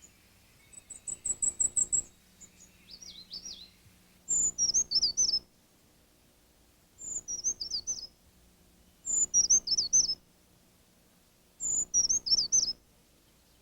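Brown creeper singing: a high, thin trill, then four short, very high songs, each starting on a high note and tumbling down through a few quick slurred notes, about two to three seconds apart. A faint low hum lies under it.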